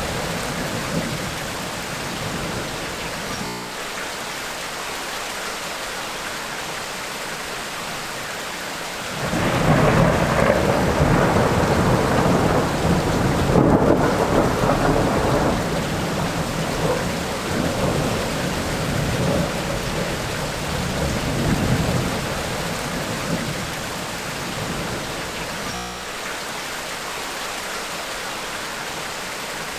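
Tropical rainstorm: steady heavy rain, with a long roll of thunder that swells about nine seconds in, rumbles for over ten seconds and fades back into the rain. A fading rumble of earlier thunder is heard at the start.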